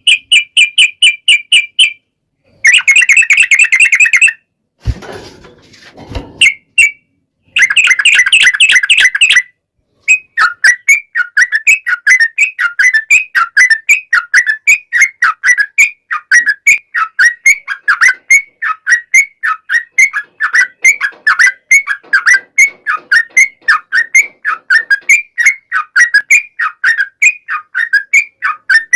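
Yellow-vented bulbul song, loud: a few short bursts of rapid chattering notes with pauses between them, then, about ten seconds in, a long unbroken run of quick, dipping-and-rising phrases.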